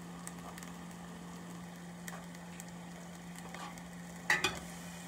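Butter and onion chunks sizzling steadily in a stainless steel skillet on high heat. Near the end a metal spoon clacks against the pan twice as stirring begins.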